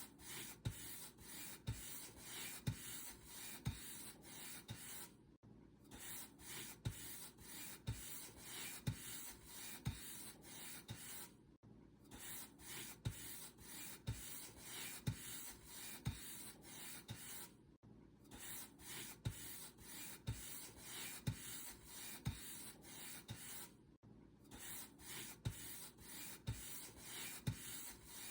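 Paint brush bristles stroking back and forth across a surface, a soft rustling with a light knock about twice a second. The strokes break off for a brief silence about every six seconds.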